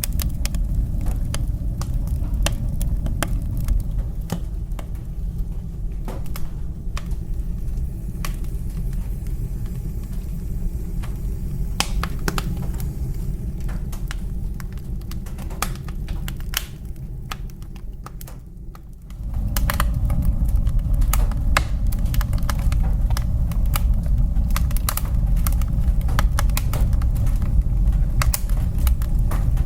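Wood fire in a fireplace crackling, with many sharp pops and snaps over a low rumble. The rumble dies away for a few seconds about two-thirds through, then comes back suddenly and louder.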